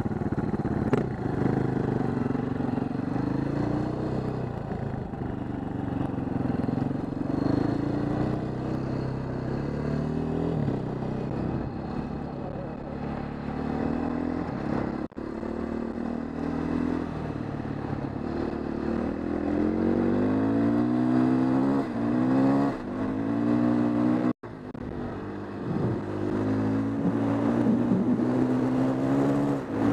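KTM 530 EXC single-cylinder four-stroke dirt bike engine being ridden hard, its pitch climbing and falling again and again with the throttle and gear changes. The sound cuts out briefly twice.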